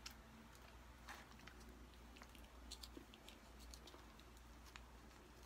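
Faint, scattered small clicks and chewing of someone eating fast food, with light handling of food and packaging, over quiet room tone.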